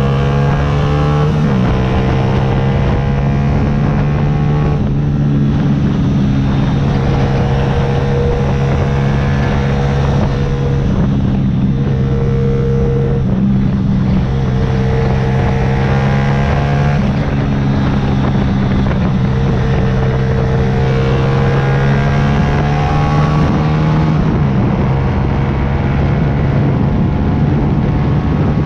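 Yamaha YZF-R125's 125 cc single-cylinder four-stroke engine running at steady revs while riding, with a drop in pitch about a second and a half in and a brief rise and fall near the end.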